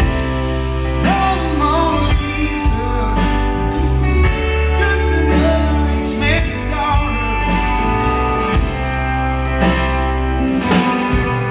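Live rock band performance of a country-rock song, with electric guitar, steady bass and drums, and a wavering vocal or lead-guitar line on top.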